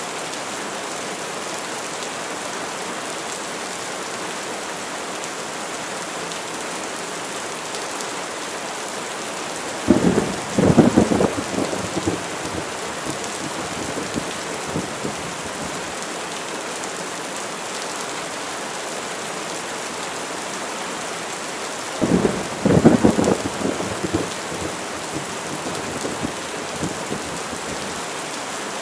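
Steady rain hissing, with two cracking thunderclaps about ten seconds in and again about twenty-two seconds in, each rumbling and crackling for two to three seconds before fading back into the rain.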